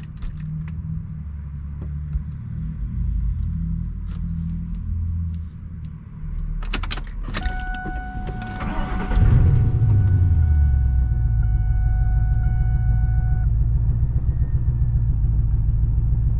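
Keys jangle, then a car engine is started. It catches with a loud surge about nine seconds in and settles into an idle that is still misfiring. A steady two-note electronic tone sounds over the start and stops shortly after.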